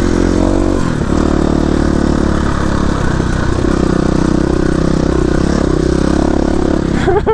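KTM 350 EXC-F dirt bike's single-cylinder four-stroke engine running under way, its pitch dropping about a second in and then climbing back up as the throttle is worked.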